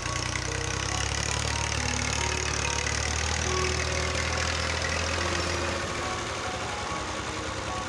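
Massey Ferguson 240 tractor's three-cylinder diesel engine running steadily, its low hum easing off about six seconds in, with background music over it.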